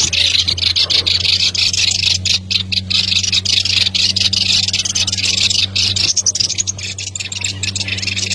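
A dense, high-pitched, rapidly flickering chorus of calling animals, with a steady low hum beneath it.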